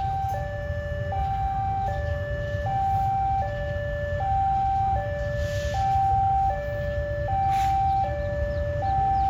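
Railway level-crossing warning alarm sounding, a steady two-note electronic alternation between a higher and a lower tone, each held for about three-quarters of a second, over a low rumble.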